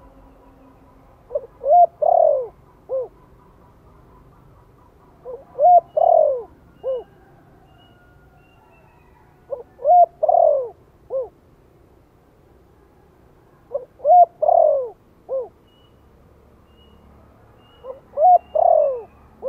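Spotted dove cooing: five repeated phrases about four seconds apart. Each phrase is a short note, a quick pair, a longer falling coo, then a short closing note.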